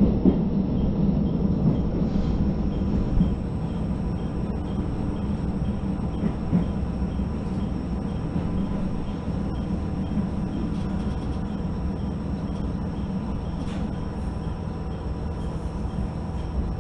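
Steady running rumble inside a JR Hokkaido H100 diesel-electric railcar: engine and wheels on the rails. It eases slightly after about three seconds and then holds even as the train runs alongside a station platform.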